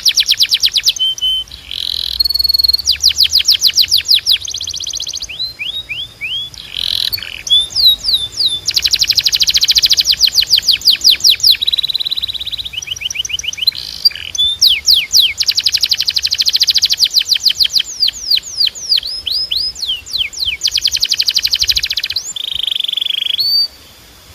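Timbrado canary singing: fast trills of rapidly repeated downward-sweeping notes, changing to a new roll or pitch every second or two. The song stops about a second before the end.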